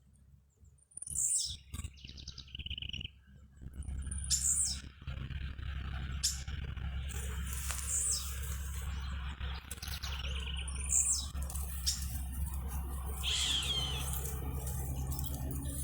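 Birds chirping in short, scattered calls, with a steady low rumble underneath from about four seconds in.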